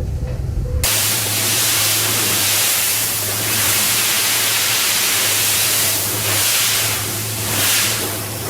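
Pressure washer spraying, a steady loud hiss of water over a low motor hum, starting abruptly about a second in and swelling and easing slightly as the spray moves.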